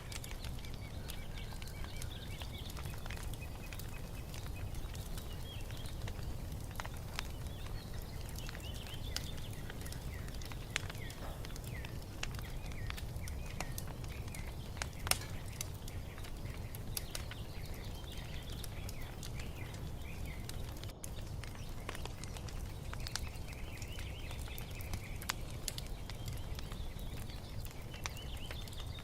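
Wood fire crackling with scattered sharp pops over a low steady rumble, while small birds chirp and twitter in short, repeated phrases in the background.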